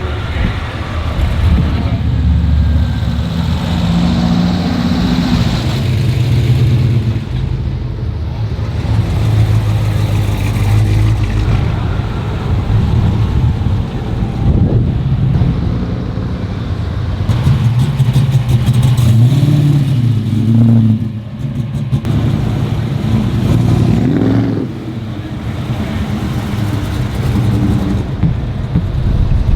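Car engines running, with a few revs that rise in pitch about two-thirds of the way through and again a few seconds later.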